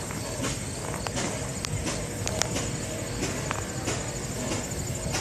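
Steam boiler feeding a James Watson steam engine running at idle on about 40 to 50 psi of steam: a steady hiss and hum with irregular sharp ticks about every half second.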